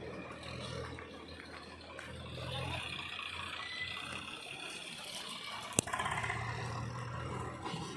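Diesel engine of heavy machinery running steadily, its drone dipping in the middle and strengthening again, with a single sharp click about six seconds in.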